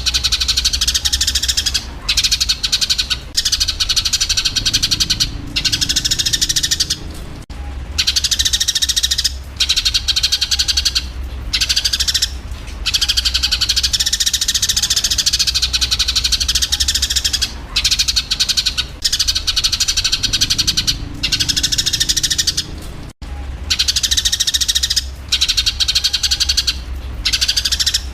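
Eurasian tree sparrows (burung gereja) chattering in the fast, dense, excited calls of sparrows fighting, broken by short pauses every couple of seconds. A steady low hum runs underneath.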